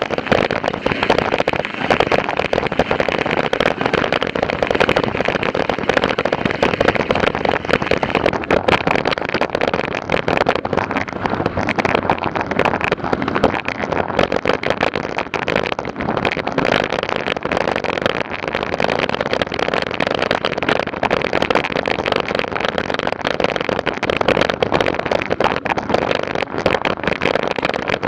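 Steady, dense crackling and rattling noise, like a mountain bike ridden fast over a rough, sandy track heard from a camera mounted on it.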